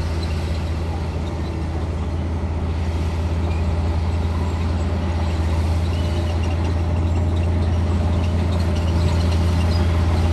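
Komatsu D58E bulldozer's diesel engine running steadily, a strong low drone that slowly gets louder.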